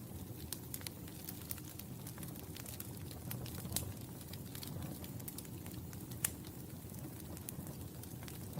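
Fire burning in a fireplace: a steady low rumble of flames with frequent irregular crackles and snaps, two sharper pops standing out about four and six seconds in.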